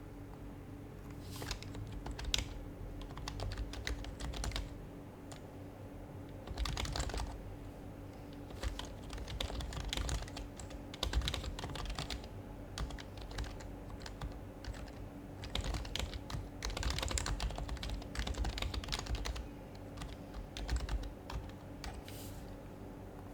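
Typing on an HHKB Professional HYBRID Type-S keyboard, whose Topre switches give soft, muted keystrokes. The typing comes in bursts of rapid keystrokes with short pauses between them.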